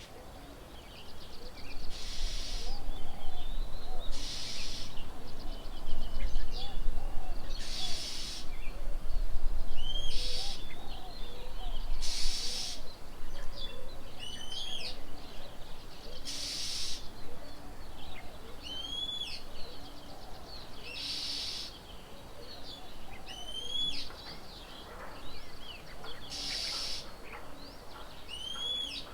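Birds calling around a bird table: many short, curved whistled notes repeated throughout, with a harsh, noisy call every few seconds. A low rumble runs under the first half and is the loudest part.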